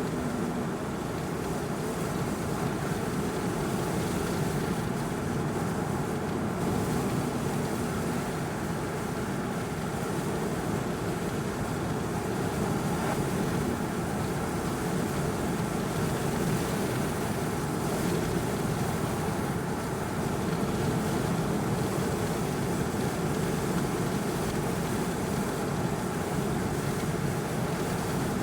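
Steady road and engine noise inside a minivan driving along, an even rumble with no let-up.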